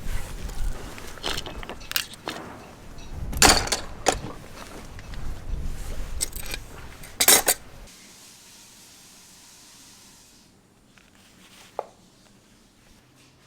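Metal clinking and knocking from tools and parts being handled, with a few louder clatters in the first eight seconds, then a quieter stretch with one sharp click near the end.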